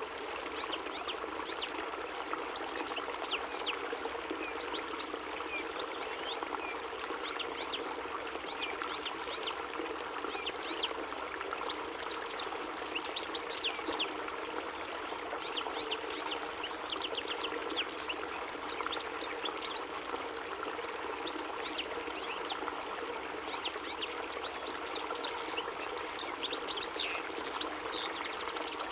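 European goldfinch (chardonneret) singing: rapid runs of high, twittering chirps and trills with short breaks, over a steady rushing background.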